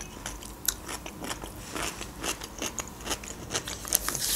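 A person chewing food close to the microphone: irregular small mouth clicks and wet chewing noises.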